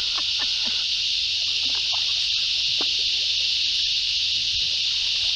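A dense, steady insect chorus: a continuous high-pitched buzzing hiss that does not let up. Faint snatches of voices sit underneath it in the first two seconds.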